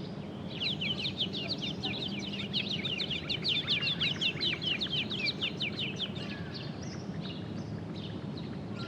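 A small songbird singing a rapid, even series of short, high, downward-sweeping chirps for about five seconds, then a few fainter scattered chirps over low background hum.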